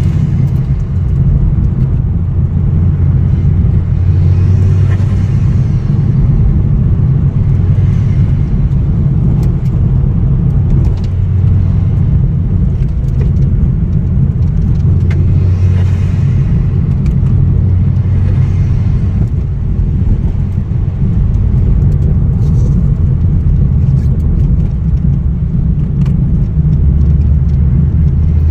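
Ford Focus ST225's turbocharged five-cylinder engine and road noise as the car is driven along, a steady low drone whose pitch shifts slightly a few times.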